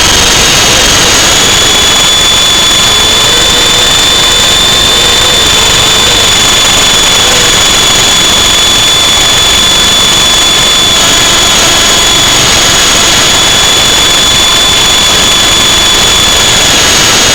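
Electric motors of a remote-controlled model aircraft whining steadily at a high pitch, with a second, higher tone above, flying in strong wind that pounds the microphone with heavy, loud noise.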